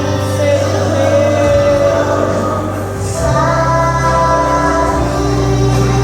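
Music with several voices singing together in sustained held notes over a steady bass, in the style of a gospel choir song; a new phrase begins about three seconds in.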